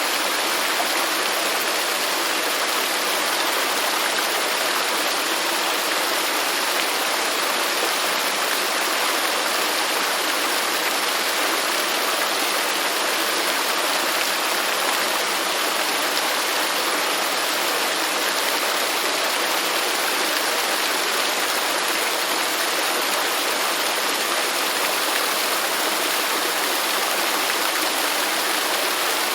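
Waterfall: a steady, unbroken rush of falling water, hissy, with little deep rumble.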